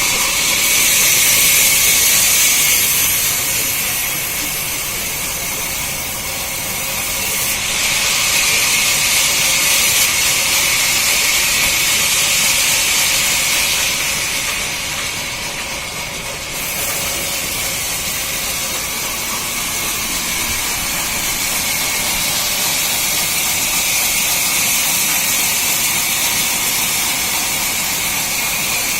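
Sawmill saw cutting through a log: a steady, hissing cutting noise that eases off briefly twice.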